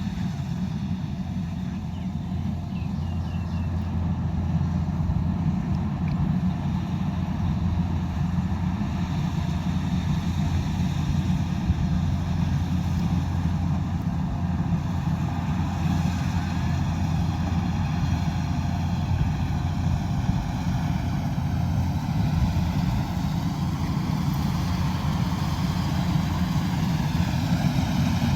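Kubota DC108X combine harvester running steadily: a deep, continuous diesel engine note, with faint higher machine whines that drift slowly up and down in pitch.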